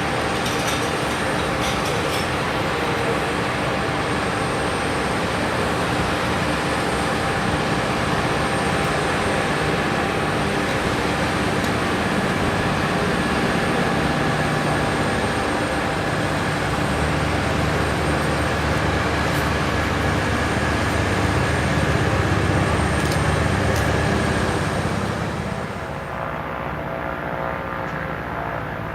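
Diamond DA40NG light aircraft's turbodiesel engine and propeller running steadily at high power for its takeoff, with a few steady tones over the noise. It grows a little louder, then fades about 25 seconds in, losing its higher tones as the aircraft moves away.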